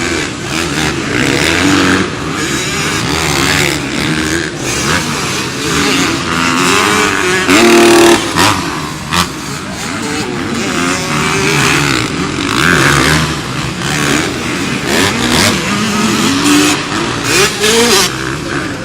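Racing motorcycle engines revving and passing, several overlapping and rising and falling in pitch. One bike passes loudest at high revs about eight seconds in.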